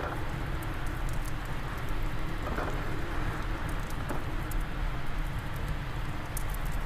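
Steady wind rumbling low, with the irregular crackle and small pops of a fireplace fire over it.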